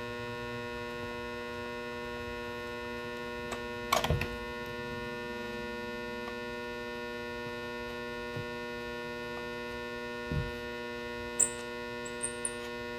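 Steady electrical mains hum, with a few brief clicks and knocks from small clock parts being handled: one knock about four seconds in, a dull thud near ten seconds, and a few light ticks near the end.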